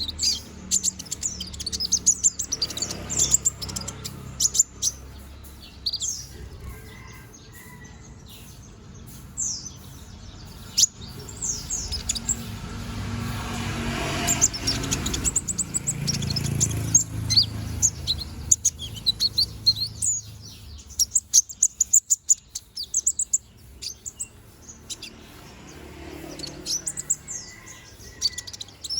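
Sunbird (konin) singing a busy, rapid run of high chirps, trills and quick sweeping notes in dense bursts, with a short thinner spell about two-thirds of the way in.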